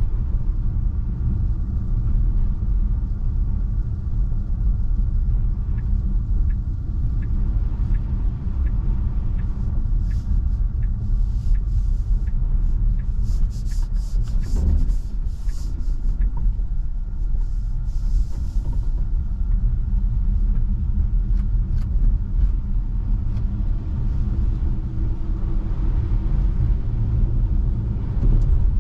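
Steady low tyre and road rumble inside the cabin of a Tesla Model 3 electric car driving on a snow-covered road. A faint light ticking about twice a second comes in for a few seconds, and brief hisses come and go in the middle.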